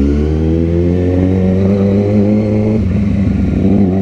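Motorcycle engine running while riding, its pitch easing down slowly over the first few seconds, roughening briefly about three quarters of the way through, then running steady again.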